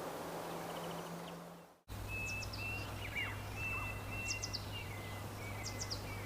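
Outdoor ambience: a steady rushing noise that fades out within the first two seconds, then birds whistling and chirping, with long level whistles and short high chirps, over a low steady hum.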